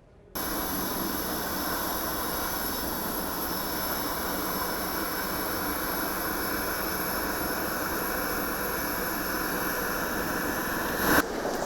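Jet aircraft engines running steadily, a constant rush with a high whine. It starts abruptly about half a second in and cuts to a different sound near the end.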